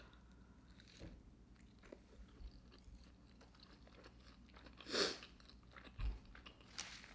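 Quiet close-miked chewing of a McDonald's McRib pork sandwich: faint wet mouth sounds and small clicks, with one louder short noise about five seconds in.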